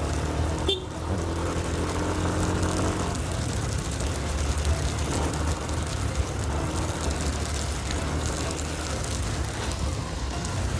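Yamaha N-MAX scooter's single-cylinder engine running steadily while riding, with a constant rush of wind noise on the camera microphone.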